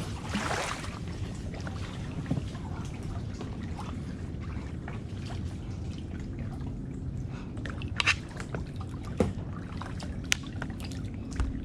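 Kayak paddling: water splashing and dripping off the paddle blades, with a few sharp knocks over a steady low rumble.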